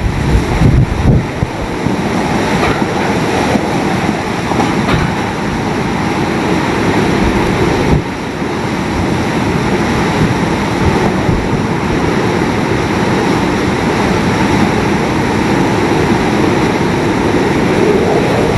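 Hurricane-force wind blowing hard across the microphone: a loud, steady rush with gusty swells and a short lull about eight seconds in.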